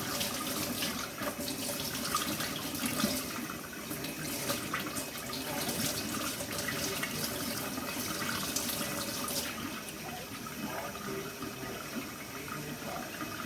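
Kitchen tap running into a sink, water splashing over raw chicken pieces as they are rinsed. The splashing turns softer about nine seconds in.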